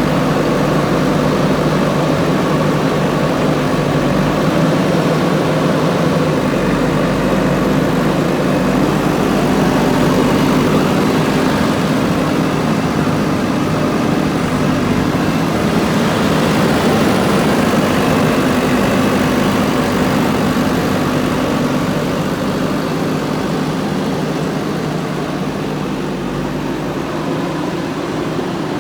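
Diesel engine of a JCB 3DX backhoe loader running steadily while working, a little quieter near the end.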